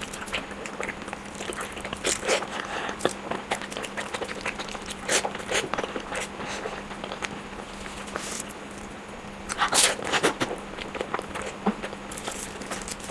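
Close-miked mouth sounds of someone eating fried eggs: chewing with irregular wet smacks and clicks, with louder clusters about two, five and ten seconds in, the loudest near ten seconds. A faint steady hum runs underneath.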